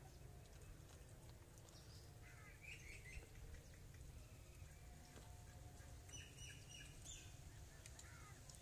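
Near silence with faint bird calls: short chirping phrases about two and a half seconds in and again around six to seven seconds, over a low steady rumble.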